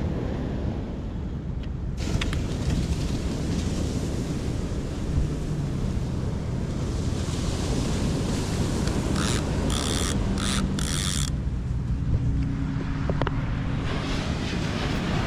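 Fishing reel being cranked to retrieve line after a cast, a steady mechanical whir over wind and surf. A few short, sharp clicky bursts come about ten seconds in.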